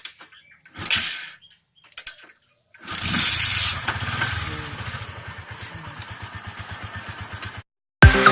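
Motorcycle engine starting about three seconds in after a couple of short noisy bursts, revving briefly, then settling into an even, rapid idle that cuts off abruptly near the end.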